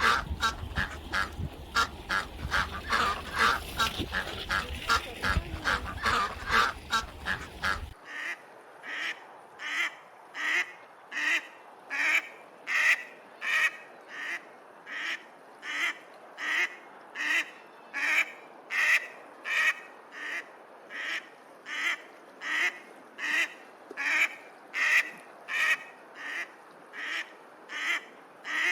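Domestic ducks quacking: a flock calling over one another against background noise, then, after an abrupt change about eight seconds in, a steady run of evenly spaced quacks, about one and a half a second.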